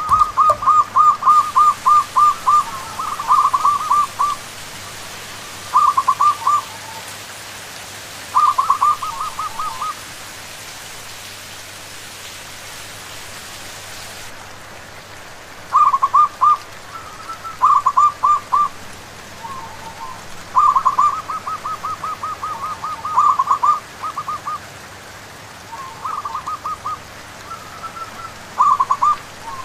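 Zebra doves (perkutut) calling in repeated bouts of quick rippling coos, with a pause of about five seconds in the middle, over a steady hiss of rain.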